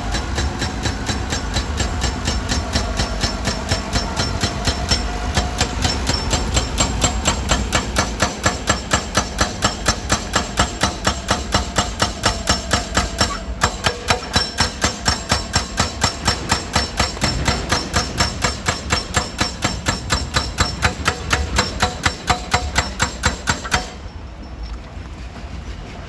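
Excavator-mounted hydraulic rock breaker hammering stone in a fast, even rhythm of about four blows a second, over the steady running of the machine's engine. The hammering stops near the end.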